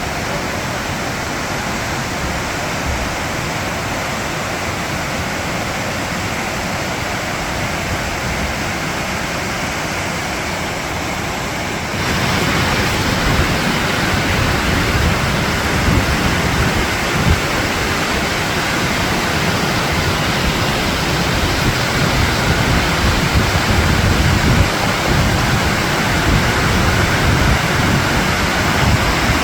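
Tortum Waterfall's falling water: a steady, even rush that jumps suddenly louder about twelve seconds in and holds there.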